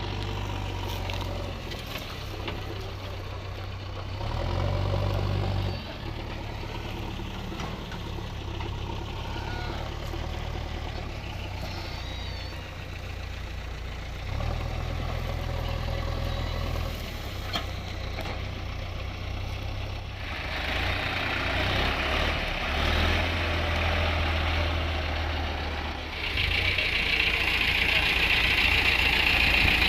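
Tractor diesel engine running, getting louder and softer several times as it works. A loud steady hiss joins near the end.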